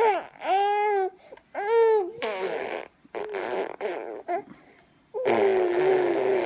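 A baby vocalizing in short high-pitched coos and squeals, then blowing raspberries: buzzing lip trills, some voiced, the longest starting about five seconds in.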